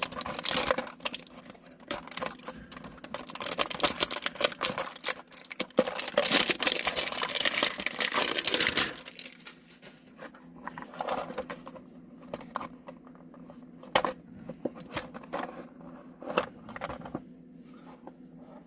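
Toy-car packaging being torn open and crumpled by hand: dense, loud tearing and crinkling for about nine seconds, then quieter scattered rustles and small clicks as the pieces are handled.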